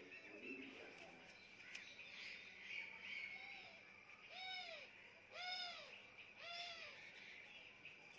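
A pet parrot making three soft calls about a second apart, each rising and then falling in pitch, with fainter calls just before them.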